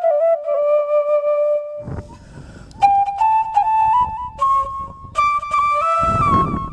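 Background music: a solo flute playing a slow melody of held, ornamented notes, with a low rumbling noise underneath twice.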